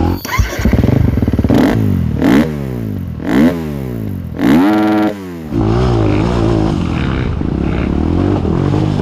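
Trail motorcycle engine pulling away and accelerating through the gears. Its pitch climbs and drops at each of about four shifts, then it settles to a steady cruise about six seconds in.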